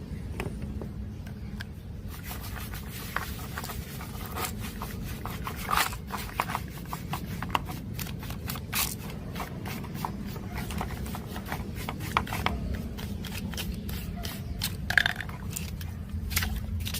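Hands working on a radio cassette player: many small clicks and scrapes, starting about two seconds in, over a steady low hum.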